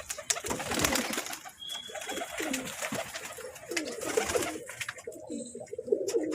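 Several pigeons cooing, their low wavering calls overlapping throughout, with scattered sharp clicks.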